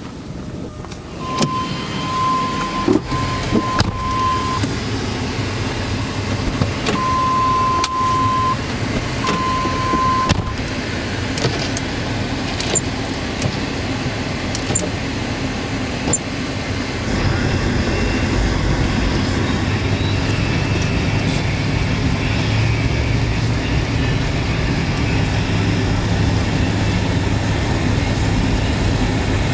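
Steady noise of a running car and wind. Three long electronic beeps sound in the first ten seconds. A deeper low hum grows louder about 17 seconds in.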